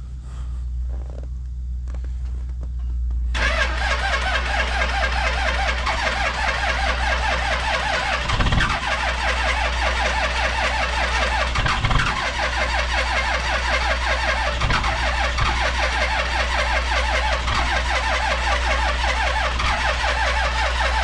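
Car engine being cold-started in 2° cold. About three seconds in the sound suddenly becomes louder and fuller, then runs on steadily, with a couple of short low thumps partway through.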